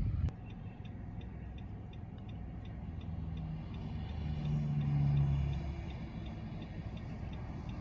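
A vehicle's flasher relay ticking evenly, about three clicks a second, over a low engine rumble that swells briefly about five seconds in.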